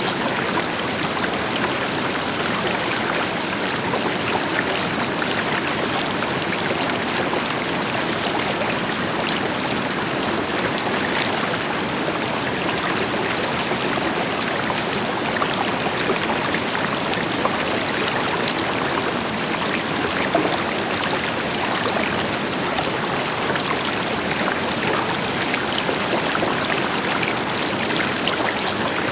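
River water flowing over rocks with a distant waterfall behind it: a steady, even rush with fine splashing and babbling.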